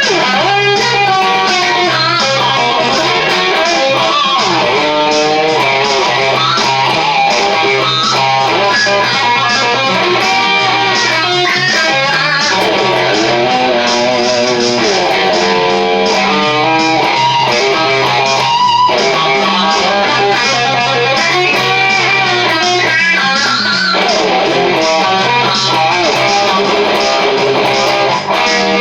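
Charvel DK24 HSS electric guitar playing an improvised lead with bends and vibrato over a band-style backing of a stepping bass line and drums generated by a DigiTech Trio pedal.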